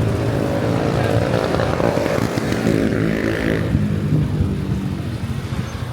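Motorcycle engine running at low speed, its pitch shifting a little partway through.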